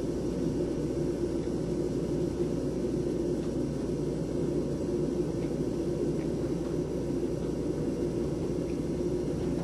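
Storm wind as a steady low rumble of noise, with no gusts or breaks standing out.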